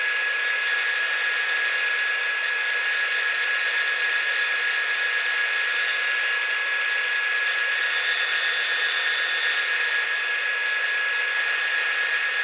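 A power tool running steadily: an even hiss with a constant high whine, no change in speed.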